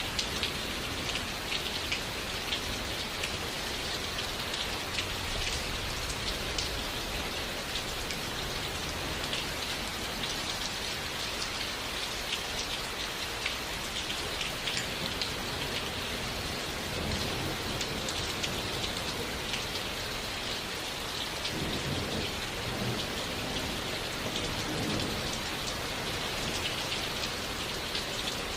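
Steady rain falling, with many small drops ticking, and a low rumble of thunder rising for a few seconds about three-quarters of the way through.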